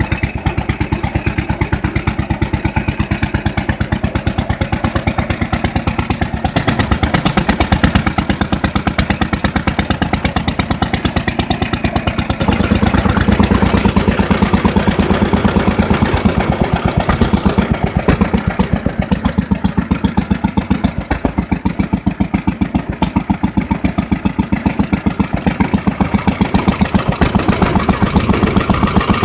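Bernard R3 petrol stationary engine of about 1929 running steadily, with an even, rapid firing beat. It gets slightly louder about halfway through.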